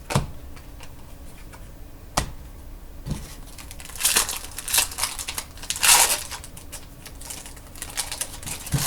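Trading cards and their packaging being handled on a table: two sharp clicks, then spells of crinkling and rustling.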